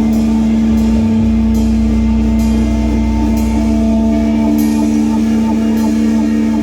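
Heavy rock band playing live, with a held, ringing guitar chord over bass and drums and a cymbal struck about once a second.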